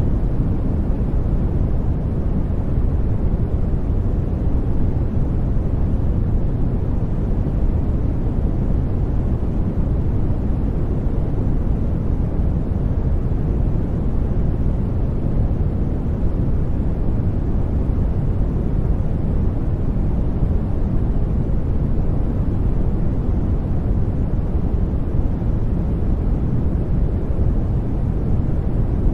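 Steady generated noise from a noise-generator sleep track, even and unchanging, with most of its weight in the low end and only a little high hiss.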